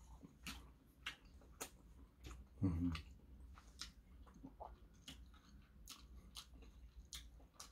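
Faint close-up chewing of braised shiitake mushrooms, with scattered wet mouth clicks and smacks and a short hummed 'mm' about two and a half seconds in.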